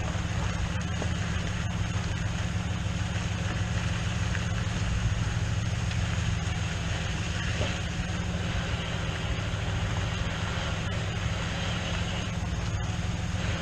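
Engine of the vehicle towing a hay trailer running at a steady speed, a constant low hum under a wash of noise from the ride, with a few faint knocks.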